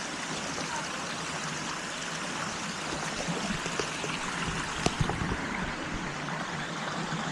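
Steady rushing of a waterfall and its stream, an even hiss of water, with a couple of sharp knocks about five seconds in.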